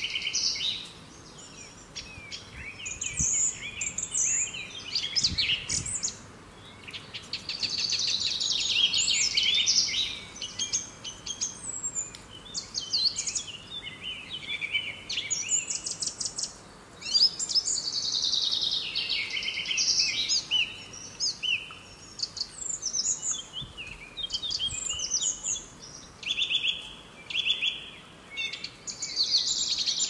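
Songbirds singing and chirping in overlapping bursts of high twitters and fast trills, with short lulls between bursts.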